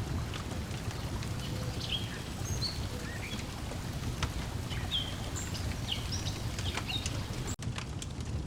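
Layered lakeside ambience: a wood fire crackling with frequent small sharp pops, birds chirping in short high calls, and a steady low rumble of water lapping at the shore. The whole mix cuts out for an instant near the end.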